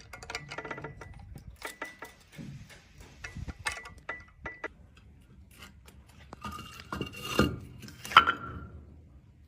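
Stones or pebbles clinking and tapping against a glass tube, a string of sharp clinks with a short ring to some, busier and louder near the end.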